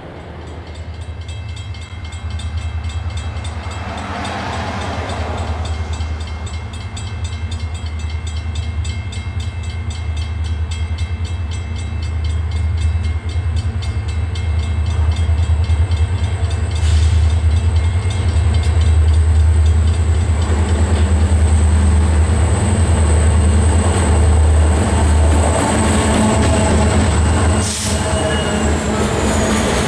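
Diesel freight locomotive approaching; its engine drone grows steadily louder until it passes close near the end, with boxcars rolling behind it.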